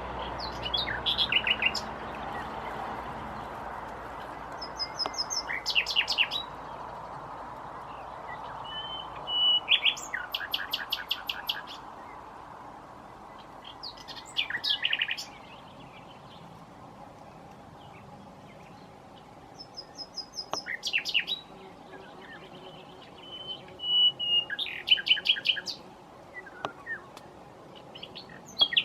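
Common nightingale singing in separate phrases every few seconds, each built of rapid repeated notes and fast trills, some opening with a clear drawn-out whistle.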